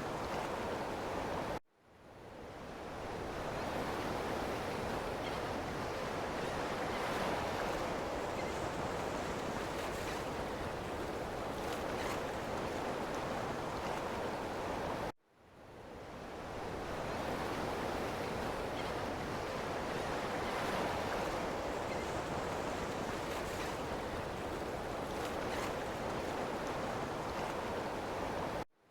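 Ocean surf: a steady wash of breaking waves. The sound cuts out abruptly three times, about thirteen seconds apart, and each time fades back in over a couple of seconds, like a repeating looped recording.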